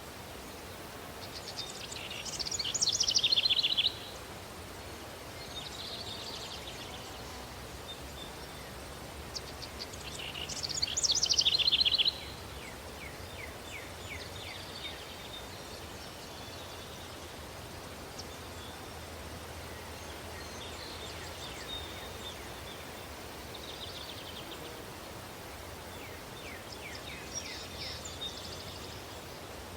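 Songbirds singing over a steady outdoor hiss. There are two loud trilled songs that swell and then stop abruptly, one early and one about ten seconds in, followed by fainter calls now and then.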